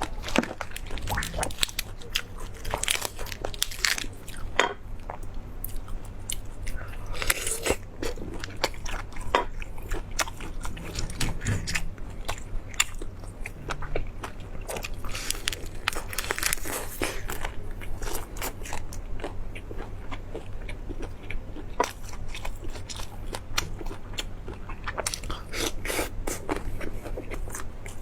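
Close-miked eating: crisp bites and crunching chews, irregular sharp crackles throughout, over a faint steady low hum.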